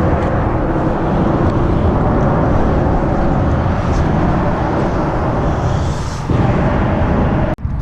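Wind buffeting the chest-mounted camera's microphone as a 50cc Yamaha pit bike is ridden along, with the small engine running underneath. It cuts out for an instant near the end.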